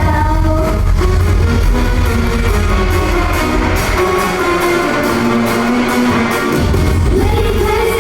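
Loud pop music with sung vocals over a heavy bass beat, played for a live stage performance; the bass thins out for a couple of seconds past the middle, then comes back in.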